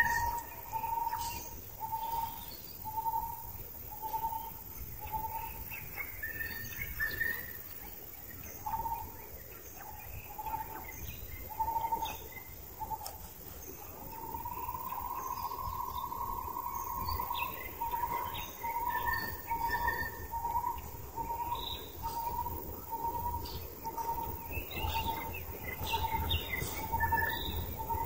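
Birds calling: one bird repeats a short clear note about once a second, holding one longer note about halfway through, over scattered higher chirps from other birds.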